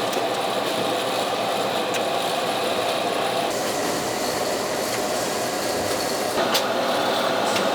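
Steady factory machinery noise with occasional light clicks, during the coating of motor armatures. The character of the noise changes abruptly twice.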